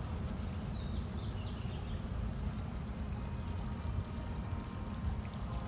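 Steady low outdoor rumble, with a few faint, short, high chirps of small birds about a second in.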